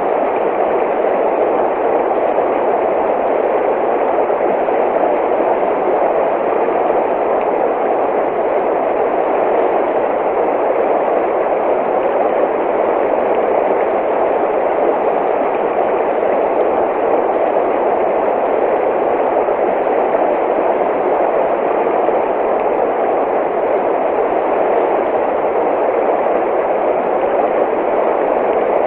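Running water rushing steadily, an even unbroken noise with no change in level.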